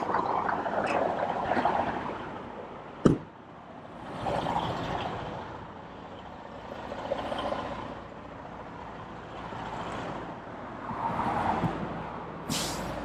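Running semi-truck and roadway traffic noise, with a sharp knock about three seconds in and a short, loud hiss near the end.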